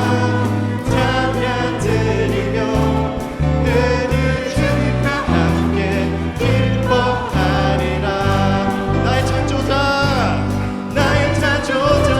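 Church praise band playing with a group of singers: a worship song with bass, drums and several voices singing together.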